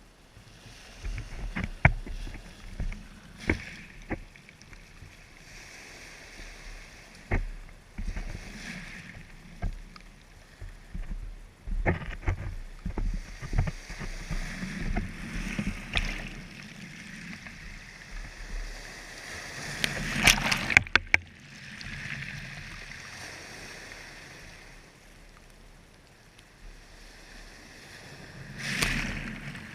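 Water sloshing and splashing in swells every few seconds, with sharp knocks scattered through, the loudest splashes and knocks about two-thirds of the way in.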